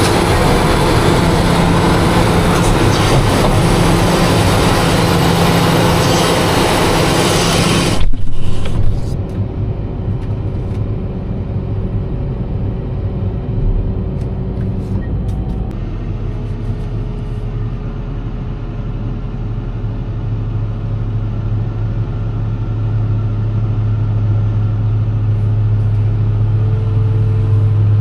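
Heavy farm vehicle engine running loudly with a lot of broad noise; about eight seconds in there is a loud knock and the sound drops abruptly to a muffled, steady low engine drone that grows slowly louder toward the end.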